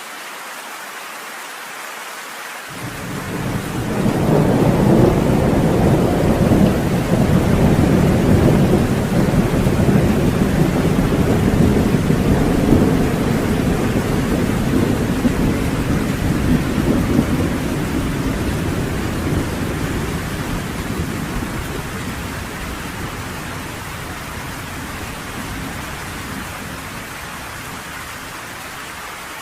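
A long rolling thunder rumble over steady heavy rain: the rumble comes in about three seconds in, swells over the next couple of seconds, holds loud, then dies away slowly over some fifteen seconds while the rain hiss carries on.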